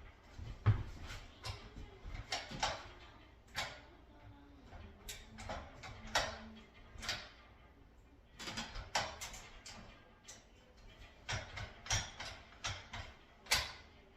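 Irregular clicks, knocks and rattles of an appliance hand truck's automatic ratchet strap mechanism being handled while someone tries to pull the strap out.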